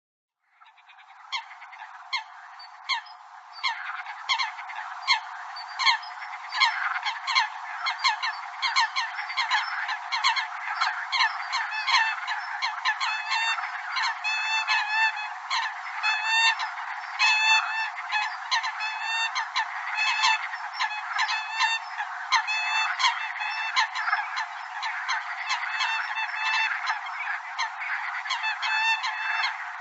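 A flock of Eurasian coots calling: many short, sharp, honking calls overlapping in a dense chorus, several a second. It starts faintly and fills out within the first few seconds.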